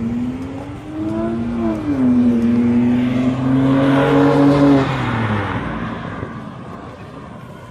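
A car engine accelerating past: its note rises, drops sharply at a gear change, then climbs again and is loudest midway before falling in pitch and fading away.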